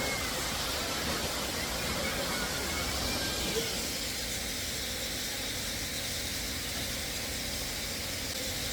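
Steady rush of falling water from a waterfall, an even hiss with no change throughout.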